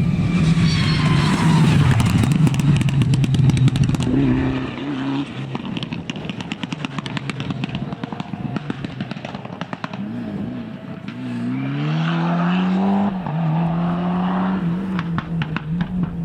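Four-wheel-drive rally car engine at full throttle on a stage, with a rapid crackle running through it. The engine is loudest in the first few seconds, then revs up again in the second half with a gear change.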